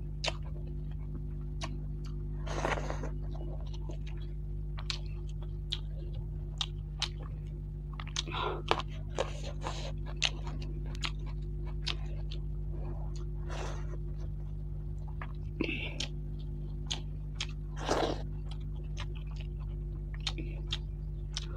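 Close-miked chewing and lip-smacking of fried rohu fish and rice, with many sharp wet clicks and a few louder crunches, over a steady low hum.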